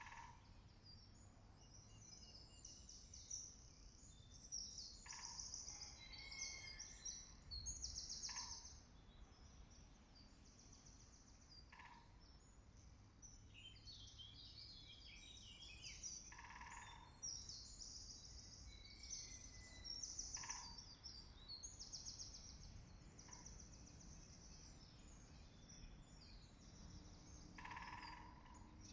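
Faint woodland birdsong: several small songbirds singing high, twittering phrases over one another. Short, sharp, lower-pitched sounds cut in every three to four seconds.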